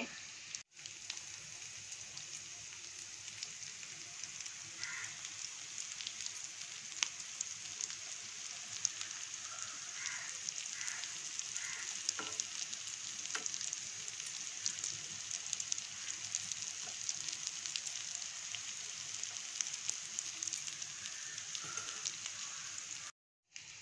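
Stuffed bitter gourds sizzling and crackling as they shallow-fry in hot oil, with an occasional light scrape or tap of a metal spatula as the pieces are turned over to fry their other side.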